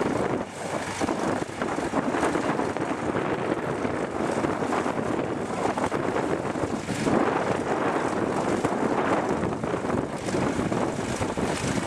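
Off-road trial truck's diesel engine working continuously over the course, with wind buffeting the microphone.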